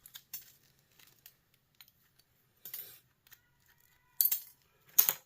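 Small pieces of scrap metal clinking and rattling as they are handled and sorted, with two sharp, loud clinks about four and five seconds in.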